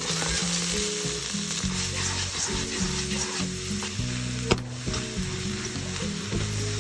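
Fried rice sizzling hard in a hot pan as it is stirred and tossed, with one sharp knock about four and a half seconds in. Background music plays underneath.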